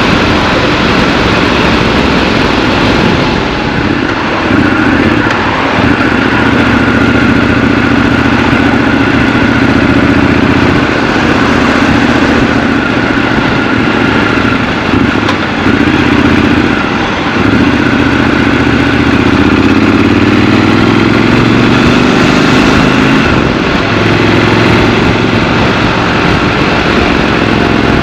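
Triumph Scrambler 1200 XC's 1200 cc parallel-twin engine running while riding in traffic, the note dipping a few times and climbing as it accelerates a little past the middle.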